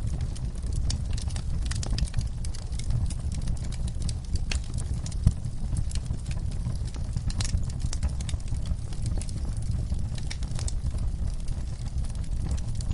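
Wood fire in a fireplace crackling: frequent sharp pops and snaps over a low steady rumble of the flames, with one louder pop about five seconds in.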